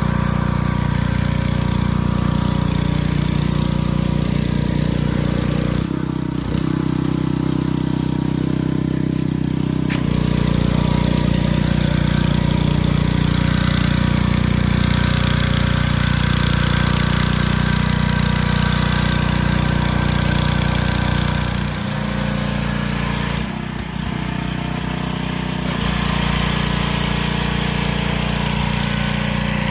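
Gas pressure washer engine running steadily, with the hiss of high-pressure water spraying on concrete. Twice the spray hiss cuts out for a few seconds while the engine note changes, then the spraying resumes.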